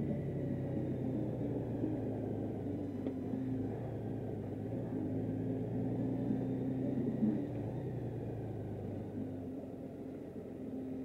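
Honda Gold Wing motorcycle's flat-six engine running steadily with road noise as the bike rolls along, a low rumble that eases off a little in the last few seconds.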